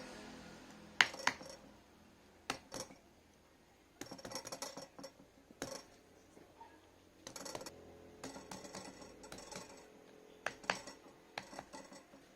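Sharp clicks and clinks of small metal tools and parts being handled, in several bursts with short stretches of rapid clattering between them.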